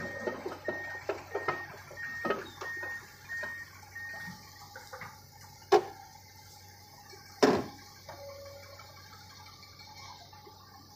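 Rain falling steadily. A faint beep repeats about twice a second for the first four seconds, and two sharp knocks come about two seconds apart near the middle.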